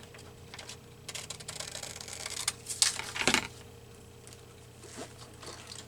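Scissors cutting through paper: a run of crisp snips and paper rustling, the loudest a little after three seconds in, then a few faint clicks.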